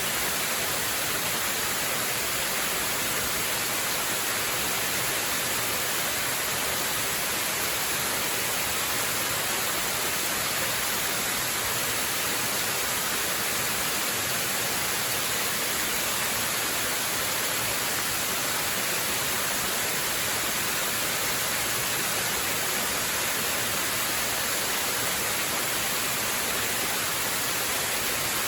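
Waterfall rushing steadily: an even, unbroken hiss with most of its weight in the high range and no changes throughout.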